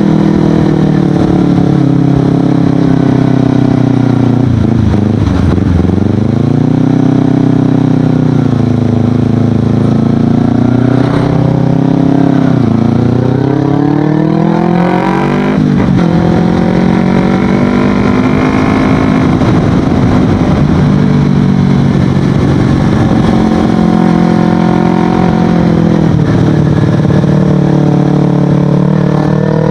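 Kawasaki Ninja 250FI parallel-twin engine running through an Akrapovic exhaust while riding, its revs falling and climbing again through several gear changes, with a sharp climb in revs about fifteen seconds in.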